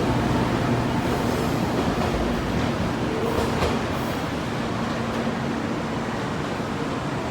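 JR Kyushu 813 and 817 series electric multiple-unit train running on the track as it leaves the station: a steady rumble of wheels and running gear with a faint steady hum, easing off a little in the second half.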